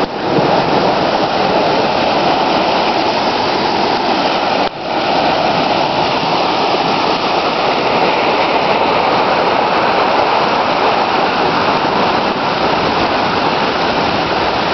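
Steady, loud rush of water, with a brief drop in level about five seconds in.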